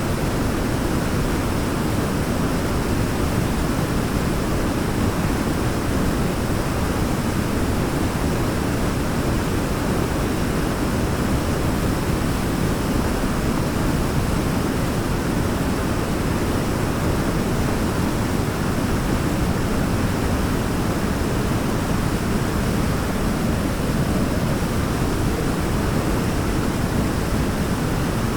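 Waterfall's steady rush of falling water, an even, unbroken roar heaviest in the low end.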